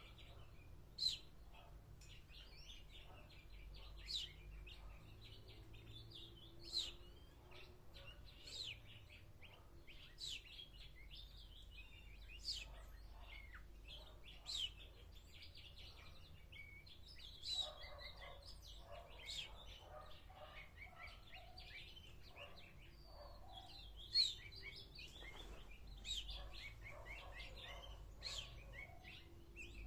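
Small birds chirping and twittering: a sparrow among them. A sharp, high call repeats about every two seconds over steady quieter twittering.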